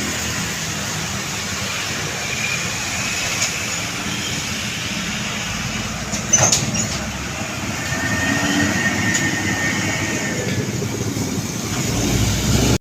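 Heavy truck traffic on a road: steady engine and tyre noise, with a sharp clack a little past halfway and a thin high squeal in the second half.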